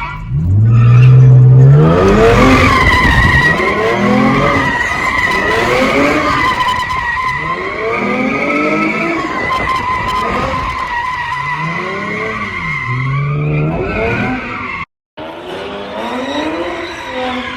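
A car spinning its tires at full throttle: a steady high tire squeal, with the engine revving up and falling back again and again. The sound cuts out for a moment about three-quarters of the way through.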